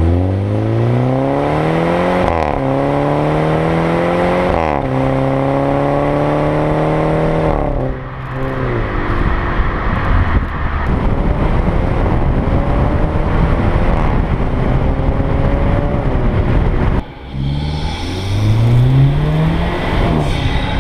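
A car engine accelerating hard: its note climbs in pitch and falls sharply three times in the first eight seconds, as at gear changes, then runs as a rough steady drone. Near the end it revs up again.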